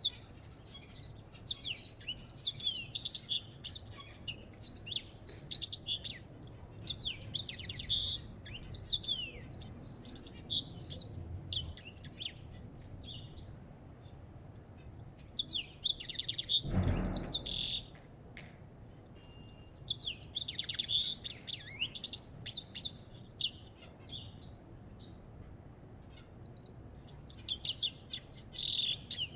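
African goldfinch singing: long phrases of fast, high twittering notes, broken by a few short pauses. There is a brief low bump just past halfway.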